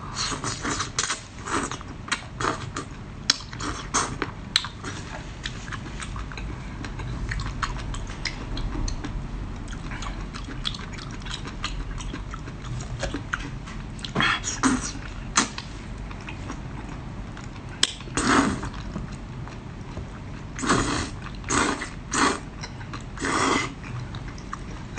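Close-miked eating of spicy seafood: chewing and biting with many small wet clicks. Several louder short bursts of eating noise come in the second half.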